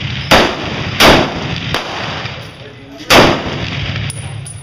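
Three loud rifle shots, the first two under a second apart and the third about two seconds later, each trailing off in a short echo; two fainter sharp reports near the end.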